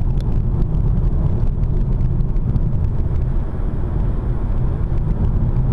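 Car driving at speed, up to about 80 km/h: a steady low rumble of road and engine noise.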